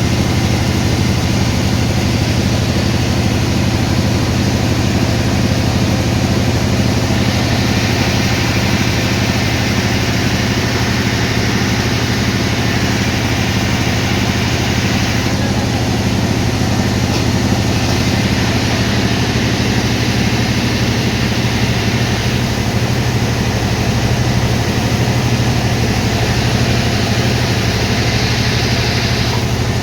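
Sawmill machinery running steadily: a constant engine drone, with a brighter hissing cutting noise that swells for several seconds twice, as the saw runs through a log.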